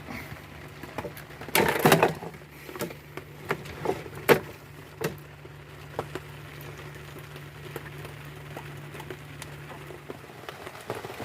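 A series of knocks and clatters, loudest in a cluster about two seconds in, over a steady low hum that stops shortly before the end.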